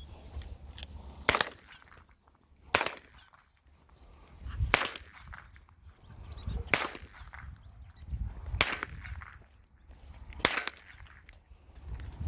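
A small gun fired six times, one sharp shot about every two seconds, introducing the puppies to gunfire.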